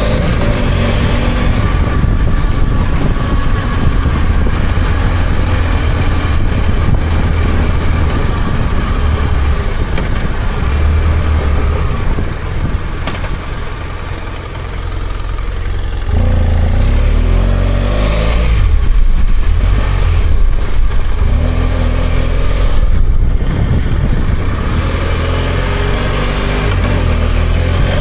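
BMW F800GS's parallel-twin engine running on the road at the rider's position, with road and wind noise. It eases off and goes quieter about halfway through, then picks up again, its pitch rising in steps.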